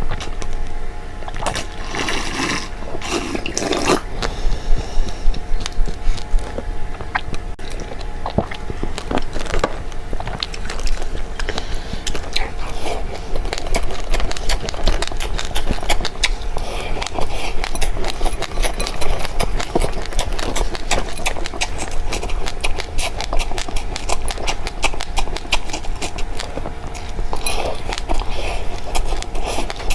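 Seeds being eaten: a dense run of small crunching clicks and crackles, quickening after the first few seconds, over a steady hum.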